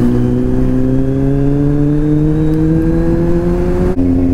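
Kawasaki Z800 inline-four engine accelerating, its pitch climbing steadily for about four seconds, then dropping abruptly near the end as at a gear upshift.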